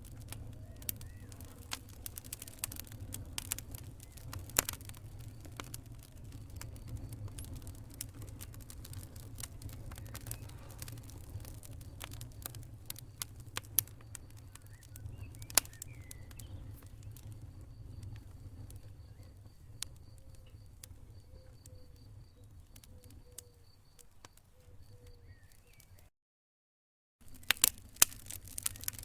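Campfire burning, with irregular wood crackles and pops over a low steady rumble. A faint high-pitched chirping repeats in the background during the second half. The sound drops out completely for about a second near the end, then the crackling resumes louder.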